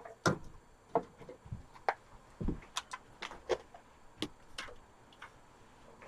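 Scattered light clicks and knocks, about a dozen at uneven intervals, of small objects being picked up and handled.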